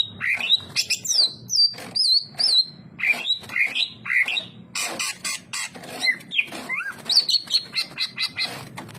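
Cucak ijo (leafbird) singing in full voice: a rapid, unbroken run of varied whistles, trills and chirps, many notes sliding up and down in pitch.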